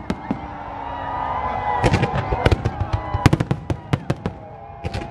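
Fireworks display: aerial shells bursting in a run of sharp bangs, thickest about two to three and a half seconds in, with a thinner spell near the end.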